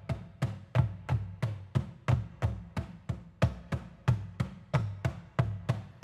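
Korean traditional (gugak) percussion playing a steady, even beat of drum strokes, about three a second, each a low thud with a sharp crack of the stick.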